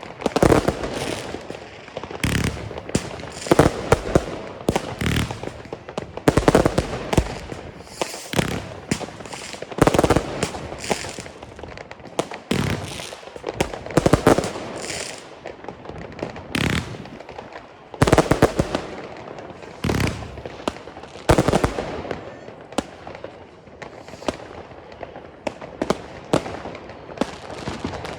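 Consumer fireworks battery (Argento Sternenmeer) firing, shot after shot, with the bang of a shell going off about once a second at irregular spacing.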